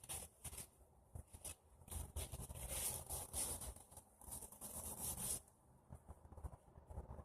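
Dry twigs and kindling crackling and rustling: scattered snaps, with a denser, hissing stretch of about three seconds in the middle.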